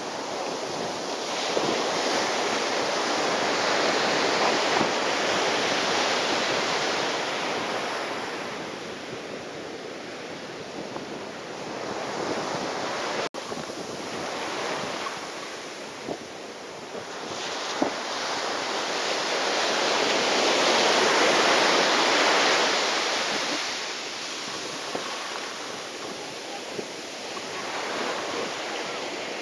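Typhoon wind buffeting the microphone over breaking surf: a rushing noise that swells and fades in long surges, with a brief click about halfway through.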